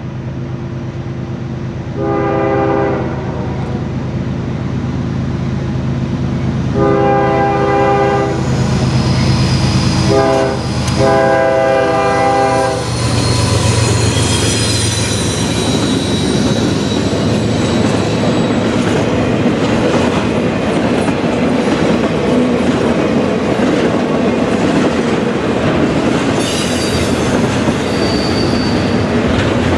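A CSX freight train's diesel locomotives sound the horn four times: short, long, short, then long, in the manner of a grade-crossing signal. The locomotives then pass close by with a swell of engine rumble, followed by double-stack container well cars rolling past with steady wheel clatter and brief high wheel squeals.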